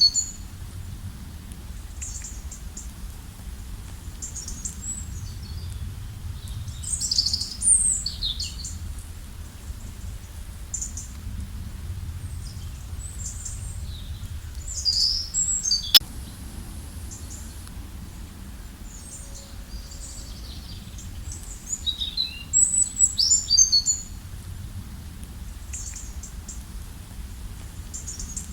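Forest songbirds singing in short, high, repeated chirping phrases, busiest in a few clusters, over a steady low background rush. A single sharp click sounds about sixteen seconds in.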